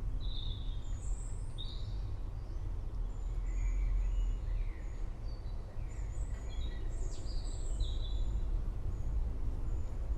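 Forest birds chirping and calling in many short whistled notes over a steady low rumble.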